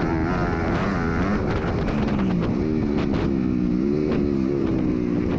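MX2 motocross bike engine revving up and down repeatedly as the rider works the throttle around the track, heard onboard.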